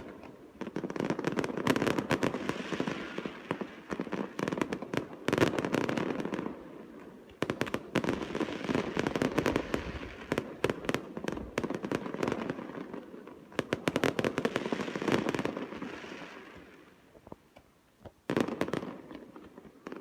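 Aerial fireworks display: dense bangs and crackling in repeated volleys that swell and fade. The noise dies down near the end before one more sharp burst.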